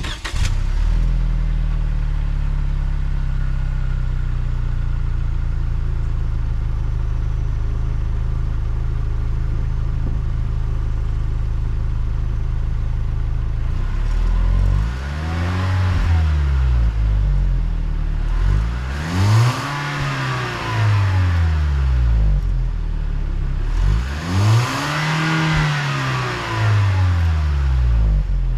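Lexus IS 200t's turbocharged 2.0-litre four-cylinder idling through an axle-back muffler-delete exhaust, then blipped three times, each rev rising and falling back to idle over about three seconds.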